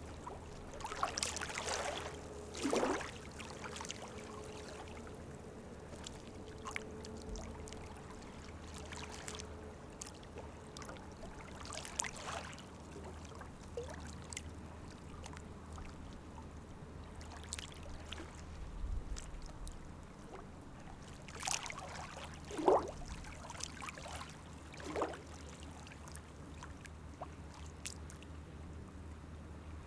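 Small waves lapping in shallow water on a tidal mudflat, a gentle splish-splash, with louder irregular splashes now and then, the strongest about two seconds in and again around twenty-two seconds.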